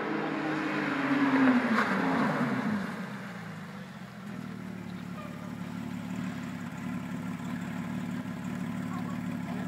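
A 2010 Porsche 911 GT3 RS's flat-six passing by, loudest about a second and a half in, its pitch falling as it goes away. After that a steady low engine hum carries on.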